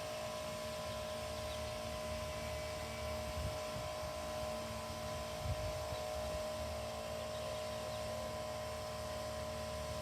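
Steady hum of several fixed tones over a hiss, with a low rumble and two faint soft thumps around the middle.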